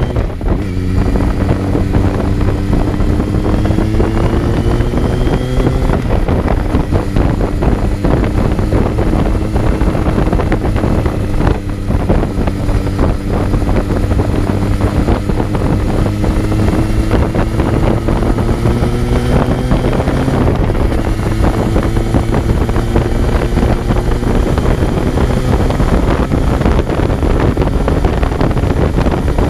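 Kawasaki Z900's inline-four engine pulling under way, heard on board with heavy wind noise. The revs rise over the first few seconds, hold steady, climb again and drop with a gear change about twenty seconds in.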